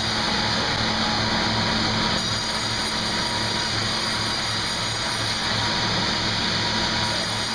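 Sawmill machinery running steadily, with a low pulse repeating about twice a second and a steady whine above it.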